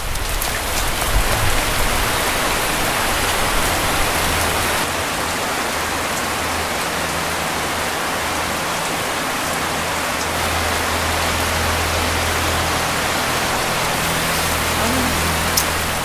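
Rain falling steadily: an even, dense hiss that holds at the same level throughout.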